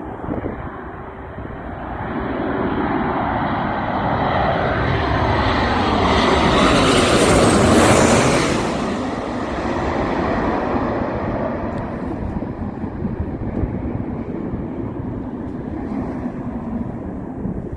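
Jet airliner on landing approach passing overhead: its engine noise swells, is loudest about eight seconds in, then fades as it moves away.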